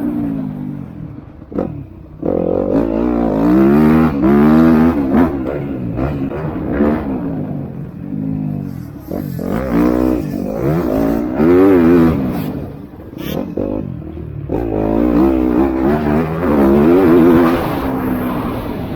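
MX2-class motocross bikes racing, several engines revving hard with pitch rising and falling as riders work the throttle and gears. The sound swells louder several times as bikes pass close.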